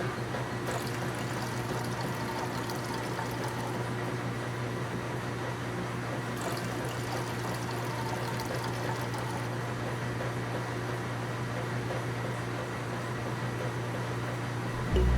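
Water running and splashing steadily over a low, even hum from a small electric motor, as a mini water pump pumps water.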